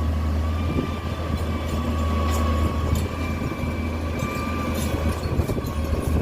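A machine engine running steadily with a low hum and a faint whine above it, with a few light clicks.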